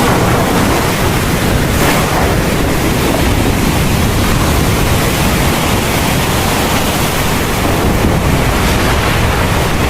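Steady heavy rain falling, a dense even hiss with a deep low rumble underneath and slight surges about two seconds in.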